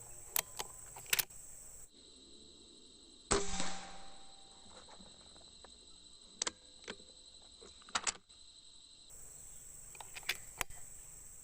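Air rifle shot about three seconds in, with a few sharp clicks before and after.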